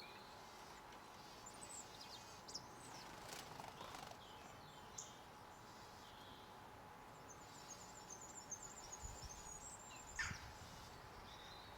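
Small garden birds chirping and twittering faintly in high, quick notes, with a fast run of twitters late on. A short, louder falling sound comes near the end.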